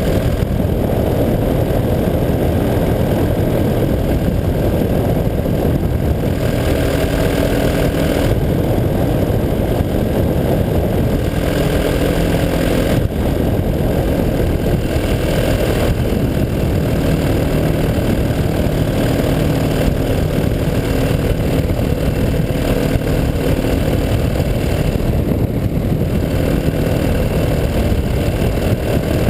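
185 cc EcXtreme paramotor engine running steadily in flight, its pitch shifting a few times and rising near the end.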